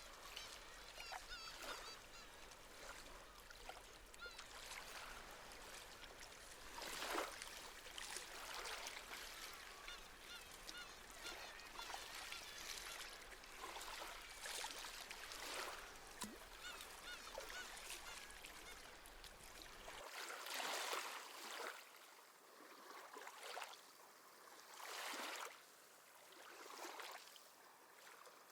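Small waves washing in on a shore, one swell after another, with seabirds calling over them. After about twenty seconds the calls thin out and the separate wave washes come through more clearly.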